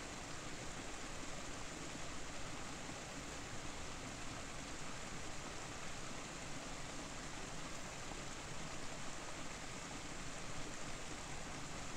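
A waterfall rushing: a steady, even rush of falling water that does not change.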